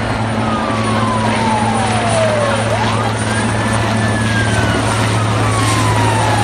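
Helicopter running with a steady low drone. Over it a single tone slides slowly downward, swoops back up about two and a half seconds in, then slowly falls again, like a siren's wail.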